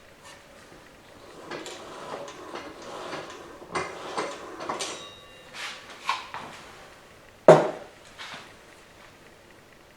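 Metal transmission parts clinking and knocking as they are handled and fitted, with a brief metallic ring about five seconds in and one sharp knock about seven and a half seconds in.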